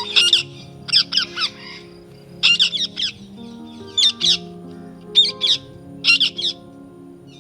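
A bird calling in short phrases of quick up-and-down sweeps, six phrases about a second apart, over soft background music of sustained chords.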